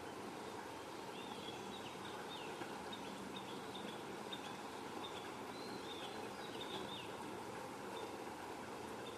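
Birds chirping: many short, high calls in irregular runs over a steady background hiss of outdoor noise.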